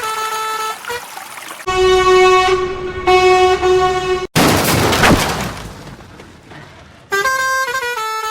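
A sound-effect truck horn sounds twice in long steady blasts between a jingly background tune. It is followed by a sudden burst of noise that fades away over about three seconds, before the tune returns.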